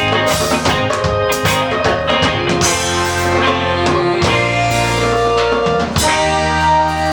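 Live ska band playing, with guitar and drum kit over bass. About six seconds in the drum hits fall away and held chords ring on.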